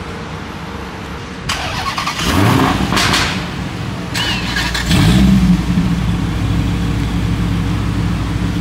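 A car engine starting: a short crank, then it catches and revs up about two seconds in, blips again about five seconds in, and settles into a steady, deep idle.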